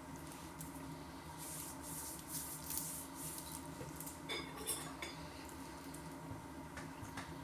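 Knife and fork scraping and clinking against a plate as food is cut, in a few short strokes with a sharper clink about halfway through.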